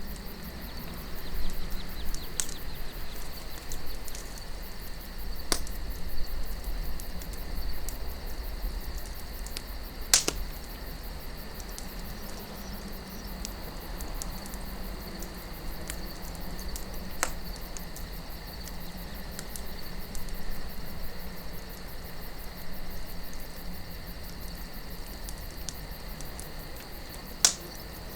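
Campfire burning with a steady low rumble of wind, broken by a few sharp pops of burning wood, the loudest about a third of the way in and near the end. Crickets chirp steadily.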